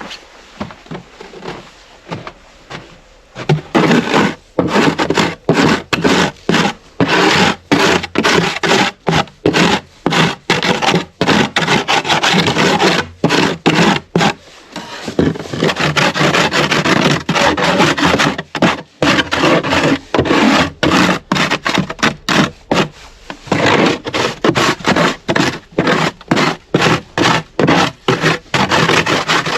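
A hand tool scraping wood in quick, loud, repeated back-and-forth strokes. It starts about three and a half seconds in.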